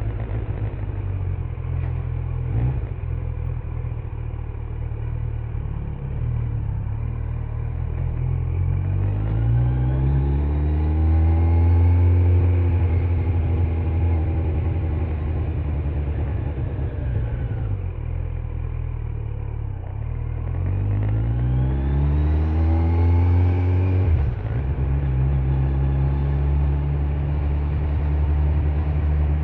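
Kawasaki Z900's inline-four engine on its stock exhaust, ridden on the road. It runs steadily, then twice climbs in pitch as the bike accelerates. The second time it drops off abruptly, then settles back to a steady cruise.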